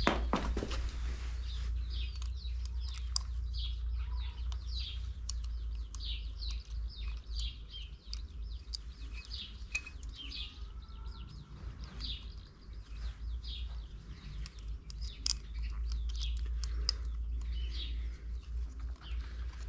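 Small birds chirping many short, falling chirps in quick succession, over a steady low rumble, with scattered light clicks of metal parts being handled.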